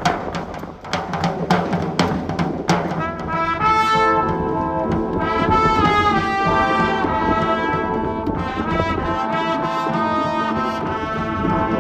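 School brass band playing: a few seconds of drum strokes, then brass (trumpets and trombones) comes in about three seconds in and holds sustained chords.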